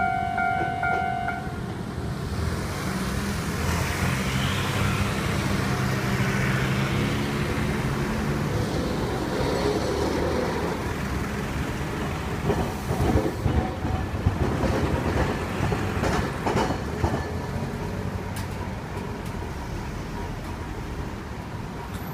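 Level-crossing warning bell ringing in a pulsing tone, stopping about a second and a half in. An electric train then runs through the crossing with a low hum, and its wheels clack over the rail joints of the flat railway crossing in a cluster of sharp knocks around the middle before the sound fades away.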